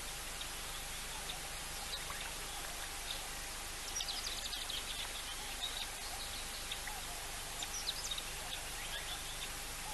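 Wild birds chirping in short, scattered calls over a steady outdoor hiss, busiest near the middle and again toward the end.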